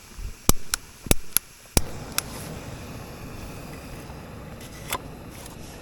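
Camping gas stove being lit: several sharp clicks in the first two seconds, then the burner catches and runs with a steady hiss.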